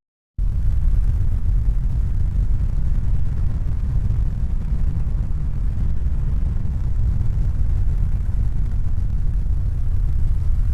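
A steady, deep rumbling noise with no distinct tones. It cuts in just after the start and fades out near the end.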